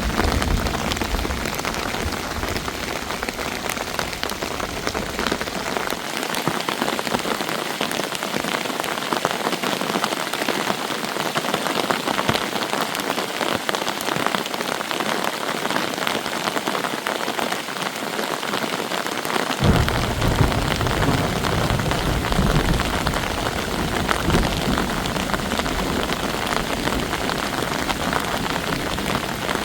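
Heavy rain falling steadily, a dense even patter. A low rumble lies under it at the start, drops away after a few seconds and comes back suddenly about two-thirds of the way through.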